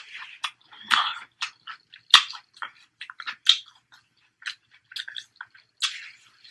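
Close-miked eating: chewing and crunching, with a quick run of sharp clicks and wet mouth smacks.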